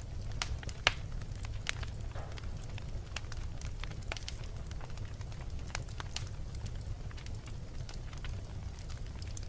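Wood fire burning in a fireplace: a steady low rumble of the flames with irregular sharp crackles and pops, the loudest pop just under a second in.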